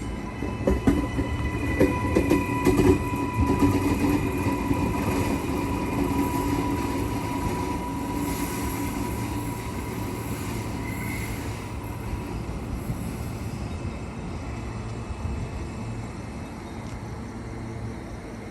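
A suburban train running along the track, its wheels clacking over rail joints in a quick run of knocks in the first few seconds, with a steady whine and wheel noise that fade away over the following seconds.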